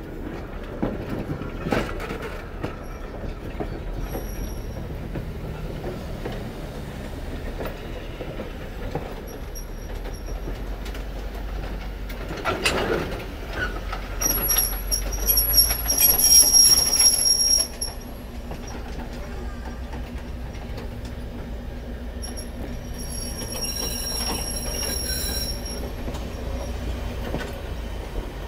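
Vintage railroad passenger coaches rolling slowly past on the track, their wheels rumbling steadily. A single clank comes a little before halfway, followed by high-pitched wheel squeal. The squeal is loudest for a few seconds past the middle and returns, fainter, near the end.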